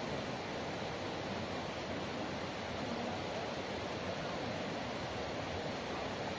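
Steady rush of flowing river water, an even noise that holds constant throughout.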